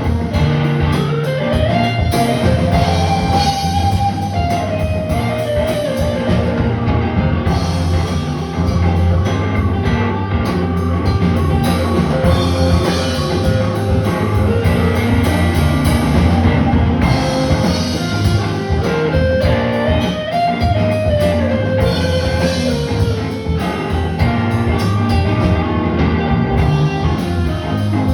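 Live rock band playing an instrumental passage: guitar over drum kit, with a lead melody that rises and falls twice.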